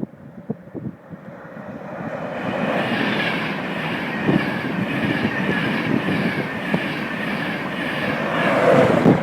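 Train passing on the railway line, its noise building over the first couple of seconds, then holding loud and swelling once more near the end.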